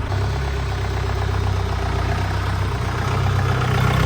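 Mahindra 4x4 jeep's engine running steadily with a low, even rumble, just after being started.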